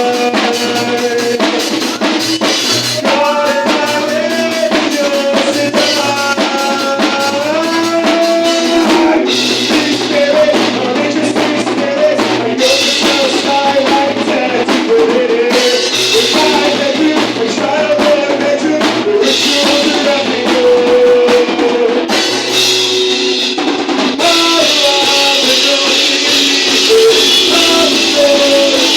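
Live band playing a song: a drum kit keeping the beat, guitar and bass, with a sung lead vocal line.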